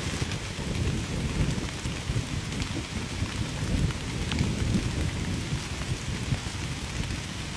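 Heavy rain falling steadily, with a low, continuous rumble of thunder underneath and scattered sharp drop ticks.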